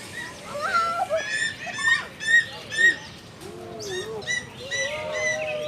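Many birds chirping and calling together, short repeated chirps at several pitches overlapping throughout.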